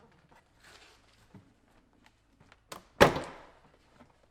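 Plastic retaining clips of a Subaru WRX front door panel popping loose as the panel is pulled off the door: a few small clicks and ticks, then a couple of sharp snaps and one loud crack about three seconds in that rings out briefly.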